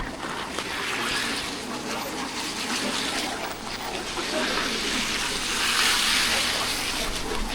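Rain falling: a dense hiss of drops and splashing, growing a little louder past the middle.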